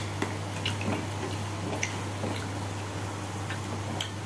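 A person eating rice by hand: soft chewing with a few scattered mouth clicks and smacks, the sharpest one near the end, over a steady low hum.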